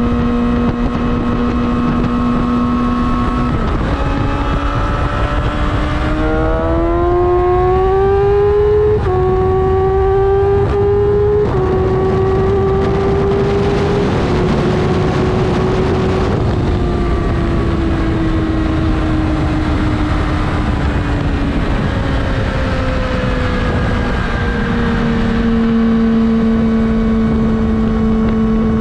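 Yamaha R6 inline-four engine under way on the road. It holds a steady note, then climbs in pitch for several seconds with two short dips, and sinks slowly before levelling off again near the end. Wind rushes past the microphone underneath.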